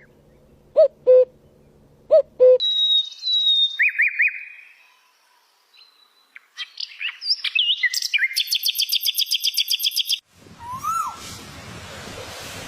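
Wild birds calling in a string of separate recordings: a low two-note call given twice, then high chirps, then a fast song of rapidly repeated notes, and near the end a single rising-and-falling whistle over a steady hiss.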